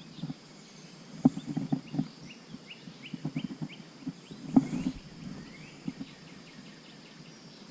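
Scattered light knocks and clatter of gear being handled, loudest about a second in and again near the middle. Behind them a bird calls a quick run of short, evenly spaced chirps, several a second, over the first half.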